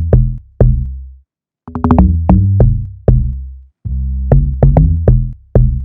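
Programmed amapiano-style log drum pattern layered with a sub bass: syncopated, pitched knocking hits, each with a deep low end that rings on and dies away, with a short silent gap just over a second in.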